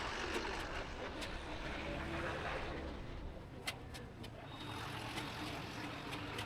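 Busy Saigon street traffic heard from a moving motorbike: a steady mix of engine running and road noise, with a few sharp clicks about halfway through and a faint high beeping near the end.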